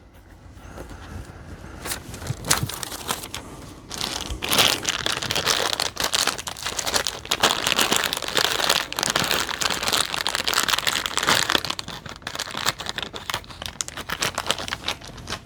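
Thin plastic crinkling and rustling as loose PVC heat-shrink wraps for 18650 cells are handled: a dense run of small crackles, loudest through the middle, thinning out near the end.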